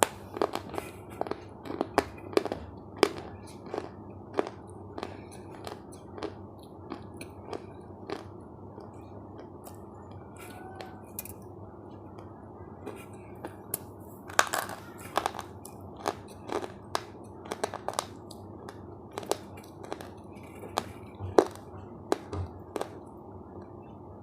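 Close-up chewing of crunchy food, with irregular crisp crunches roughly once or twice a second and a denser run of crunches about halfway through.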